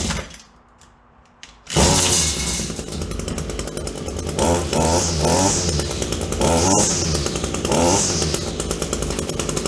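Echo SRM-210 string trimmer's two-stroke engine starting about two seconds in and running on its newly replaced carburetor, revved up several times with the throttle.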